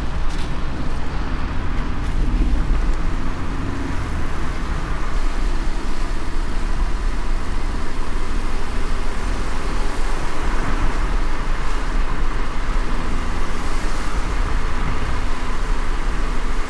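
Car driving in light rain: a steady low road and engine rumble with an even hiss of tyres on a wet road.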